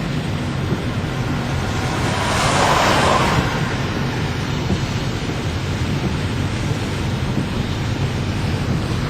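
Steady rushing noise of rain with wind buffeting the microphone, swelling into a louder hiss for about a second, two to three seconds in.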